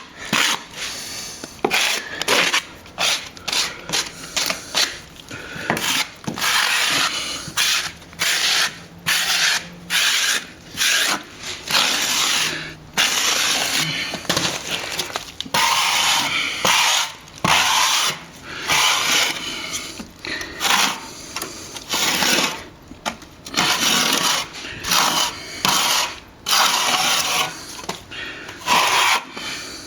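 A blade scraping back a nearly set patch of sand mixed with stopping plaster in a wall crack, in repeated rasping strokes about one a second, cutting the fill down to the surrounding sand finish.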